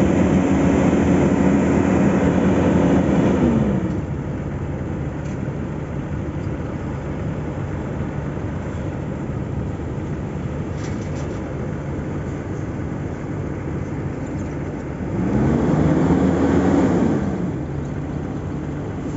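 Diesel engine of heavy road-building machinery running steadily. It revs up at the start and again about 15 seconds in, holding the higher pitch for a few seconds each time before dropping back.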